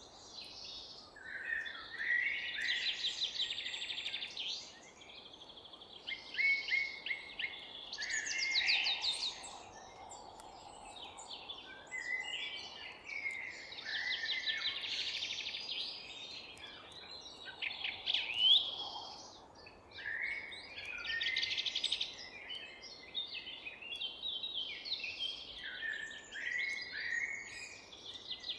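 A chorus of several songbirds singing in a forest, with overlapping trills, rapid chirp series and sliding whistled notes, over a faint steady background hiss.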